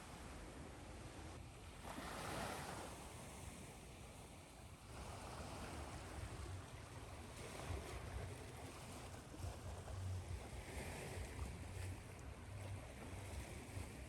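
Ocean waves washing in, one wave swelling about two seconds in and the surf rising again around five seconds, over a low, uneven rumble.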